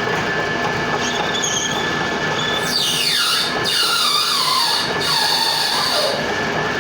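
Lathe running with a steady hum and a constant high whine, with two high squeals from the cutting that slide down in pitch over a second or two each, about midway through.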